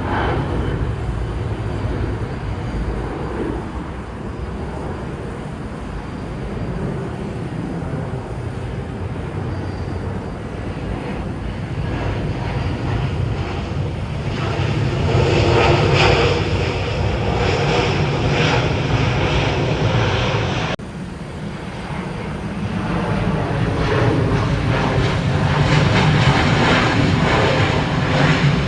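Jet airliner engines running, swelling louder about halfway through and again near the end, with an abrupt break about two-thirds of the way in where the recording cuts.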